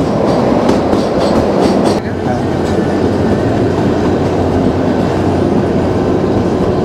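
Narrow-gauge toy train carriages running on the track: a steady rumble and rattle of wheels on rail, with a few clicks of the wheels over rail joints in the first two seconds.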